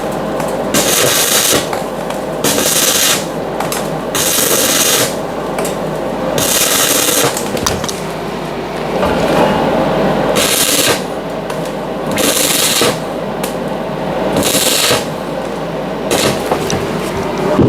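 Welder crackling in about eight short bursts of half a second to a second each, stitch-welding a bus door frame, over a steady hum.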